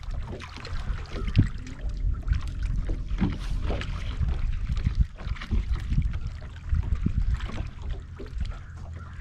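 Water slapping and sloshing against a bass boat's hull, with a steady low rumble and scattered sharp knocks throughout.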